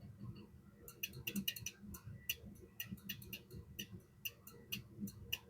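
Light, irregular clicks and ticks, several a second, starting about a second in: small parts of a Vibroplex bug (semi-automatic telegraph key) being handled and adjusted during reassembly.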